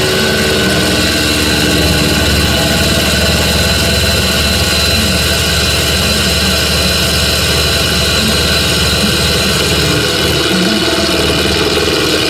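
Metal lathe running steadily while turning a steel stud, a constant machine hum with a thin high whine above it.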